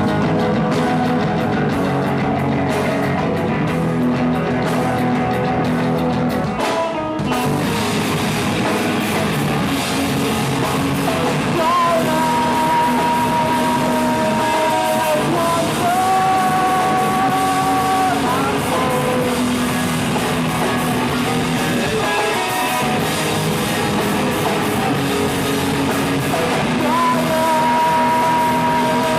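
Live rock band playing a song on guitars and drum kit, with singing and long held melody notes. The sound comes in abruptly, and the cymbals and full band crash in about seven seconds in.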